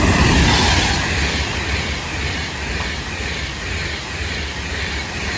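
Avanti West Coast Class 390 Pendolino electric train passing along the main line. It makes a loud rushing rumble of wheels and air, loudest at the start and easing slightly.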